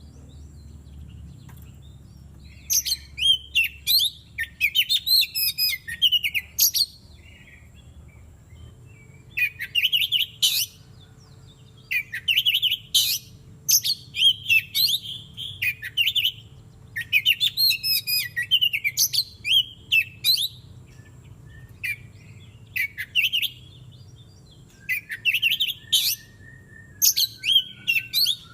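Oriental magpie-robin (kacer) singing: loud phrases of rapid, varied whistles and trills, each lasting about two to four seconds, with short pauses between them. A faint low hum runs underneath.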